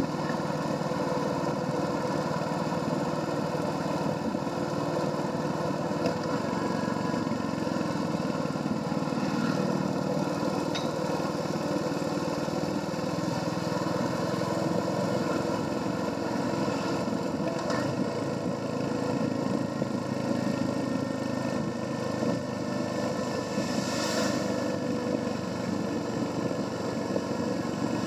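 Royal Enfield Hunter 350's single-cylinder engine running steadily through its stock exhaust while riding.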